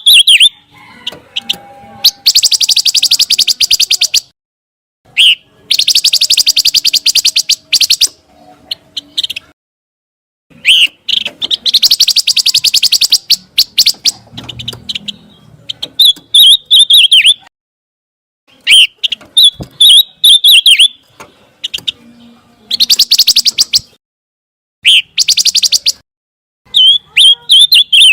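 Pancawarna songbird singing: repeated phrases of fast, high, buzzy trills about two seconds long, alternating with shorter clear whistled notes, separated by brief pauses.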